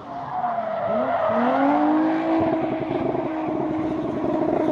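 Race car engine accelerating hard, its pitch climbing about a second in and then holding at a high, steady note.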